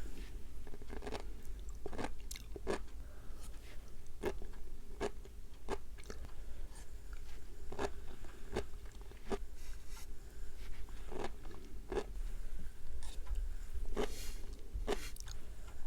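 Sea grapes being chewed close to the microphone, the small bead-like seaweed fronds popping with sharp, crisp clicks one or two times a second, over a low steady hum.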